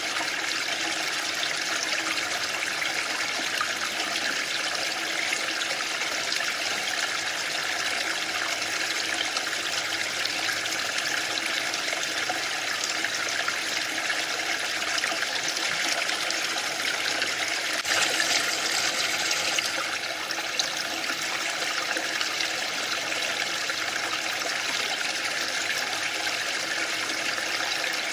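Waterfall: a steady rush of falling water. It swells a little louder and brighter for about two seconds, roughly two-thirds of the way through.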